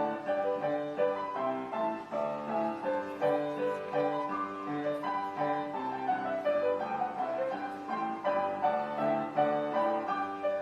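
Piano playing a slow melody with chords, notes changing every half second or so.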